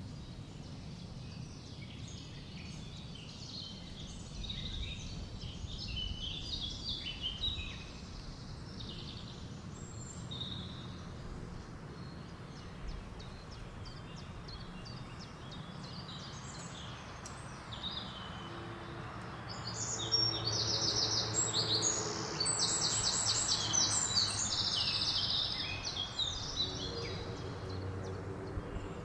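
Songbirds chirping and singing in a forest over a steady low rush of wind. Scattered short calls come early on, and about two-thirds of the way through a louder, fast trill of rapidly repeated notes takes over for several seconds.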